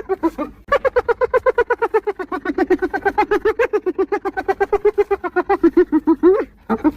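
Spotted hyena giggling: a long, rapid run of short pitched hoots, about nine a second, starting slightly higher and settling lower. It breaks off with a short rising note near the end.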